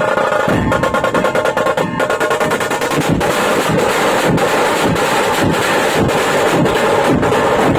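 Music with drumming: quick drum strokes over a held melodic tone, settling into a steady strong beat of about two strokes a second around three seconds in.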